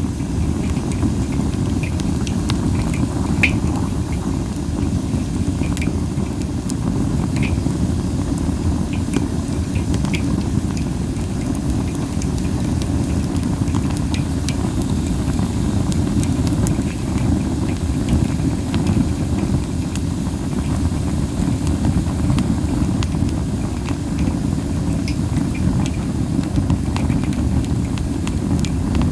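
Wood fire of masaki (Japanese spindle) branches burning, with scattered sharp crackles and pops over a steady low rumble from wind on the microphone.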